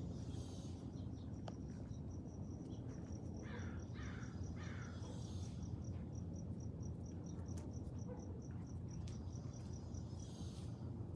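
An insect chirping steadily in an even, high-pitched pulse of about four beats a second. A few short, higher calls break in over it, over a steady low rumble.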